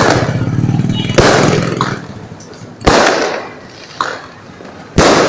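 Fireworks exploding: four sharp bangs, about a second in, near three seconds, around four seconds (the weakest) and near five seconds (the loudest), each trailing off in a rumble. A steady low drone runs under the first two seconds.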